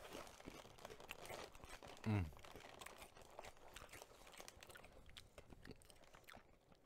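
Close-up crunching and chewing of crunchy baked Cheez-It crackers, many small crackles throughout. One short, low vocal sound falling in pitch comes about two seconds in.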